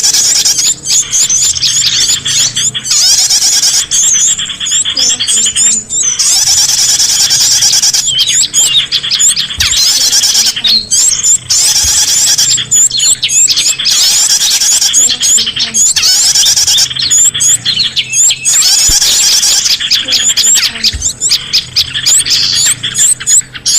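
Bird-lure (pikat) recording of many small songbirds calling at once: a dense, loud stream of rapid high-pitched chirps and short trilled notes with hardly a pause.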